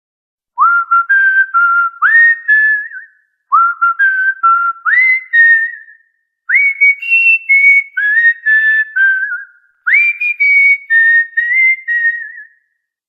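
Cockatiel whistling a short tune four times over, each phrase a run of clear notes that slide up into pitch, with brief gaps between.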